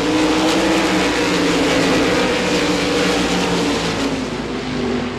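A pack of RaceSaver sprint cars racing, several 305 cubic-inch V8 engines at high revs heard together, their pitch drifting up and down as the cars work around the track. It gets a little quieter near the end.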